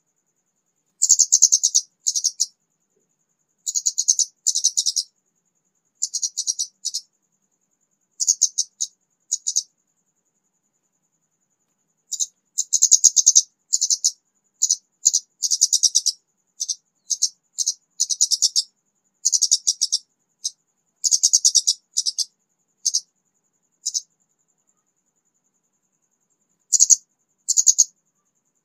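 Young orange-headed thrush, a raw untrained bird just beginning to sing, giving short, rapid, high-pitched chattering phrases about half a second long with gaps between them and a longer pause near the end.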